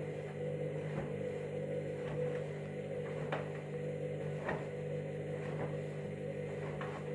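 Candy washing machine's drum motor running with a steady hum while its KG Detector senses the weight of a small load, with a light tick about once a second.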